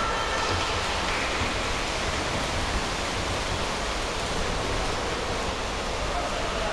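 Steady wash of splashing water and reverberant pool-hall noise from a water polo game in a swimming pool.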